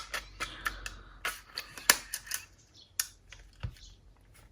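Sharp plastic clicks and taps, about a dozen scattered irregularly and thinning out after the first couple of seconds, as a Dolby test cassette is handled and loaded into an Aiwa HS-PL55 cassette walkman.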